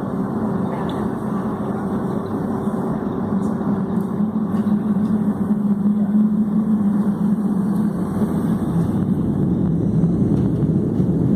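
Boeing 757 jet engines heard from inside the passenger cabin: a steady low rumble with a hum that grows gradually louder, as the engines spool up for takeoff.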